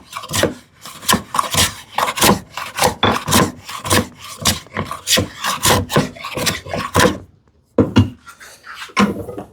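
A hand tool rubbing on wood in quick, even strokes, about three a second. The strokes pause briefly near the end, then a few more follow.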